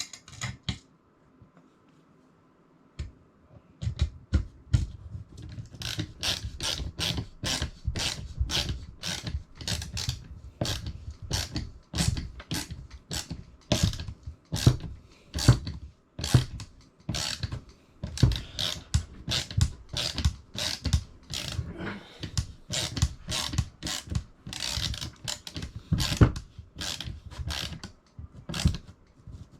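Ratcheting screwdriver clicking as screws are driven during assembly: a few scattered clicks at first, then a steady run of about two or three ratchet clicks a second.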